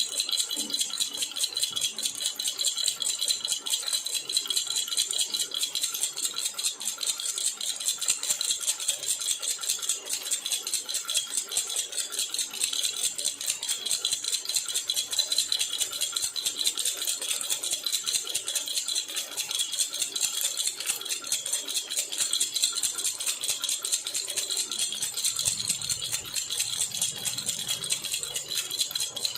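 Jhunjhuna, a metal baby rattle, shaken rapidly and continuously: a dense, even jingling with a bright, high ring.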